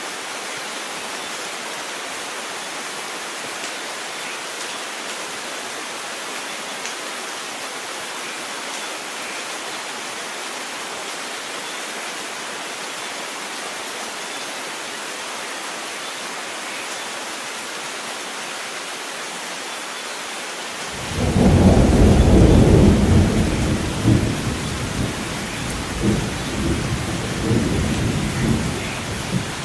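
Steady rain falling as an even hiss. About twenty seconds in, a deep rumble of thunder breaks in suddenly, loudest at first, then rolling on in several swells.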